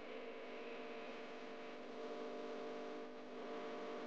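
Chicken pieces sizzling as they fry in bubbling oil, under a steady drone of several held tones.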